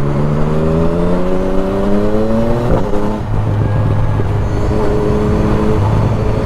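Motorcycle engine pulling up through the revs for about three seconds, then a gear change and a steadier, lower note, with wind rush on the rider's microphone.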